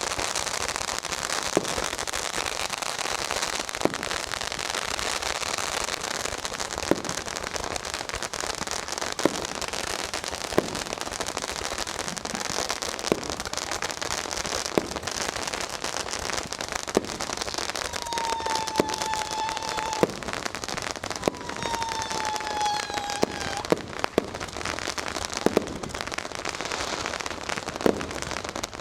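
Massed fireworks and firecrackers: a dense, continuous crackling with sharp bangs every second or two. About two-thirds of the way through come two whistling fireworks, each a whistle falling slightly in pitch.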